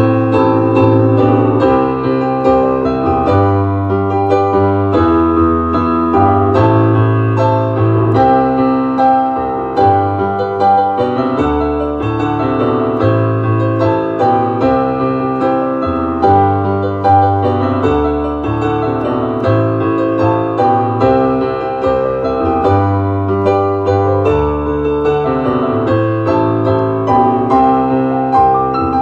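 Piano playing an instrumental ballad: a steady stream of chords and melody notes over a sustained bass line.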